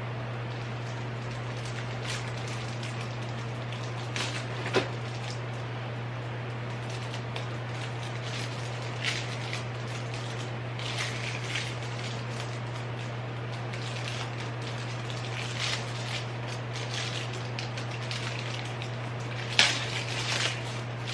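Scattered light clicks, taps and rustles of belongings being handled and put away while unpacking, with a sharper knock about 5 s in and another near the end, over a steady low hum.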